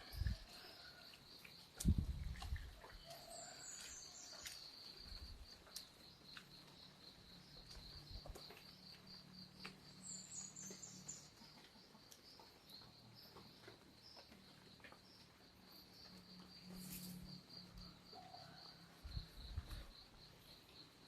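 Rural birds and insects: a steady, fast-pulsing high insect chirp runs throughout, and a bird gives a falling series of high notes twice, a few seconds in and again about ten seconds in. A few soft low thuds come and go, near the start and near the end.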